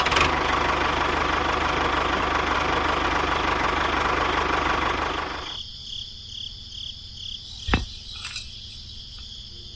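A small electric motor of a homemade model machine runs with a steady buzz, then cuts off suddenly about five and a half seconds in. A single sharp click follows a couple of seconds later.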